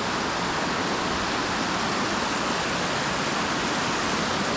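Small creek waterfall pouring steadily: a constant, even rush of falling water.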